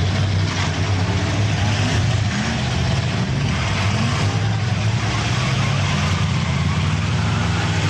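Demolition derby cars' engines running together in a steady low drone, with revs rising and falling now and then as the cars push against each other.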